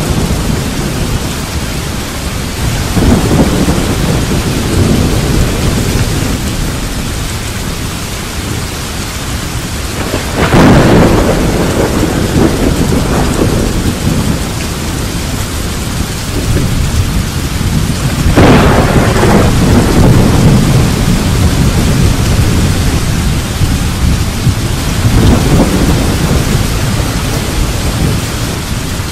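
Thunderstorm: steady rain with thunder rumbling four times, about three, ten, eighteen and twenty-five seconds in, the loudest clap about ten seconds in.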